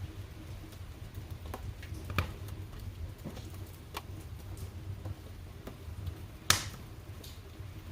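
Wood fire burning in a fireplace: a low steady rumble with scattered crackles and snaps, one louder snap about two seconds in and a sharp loud pop near the end.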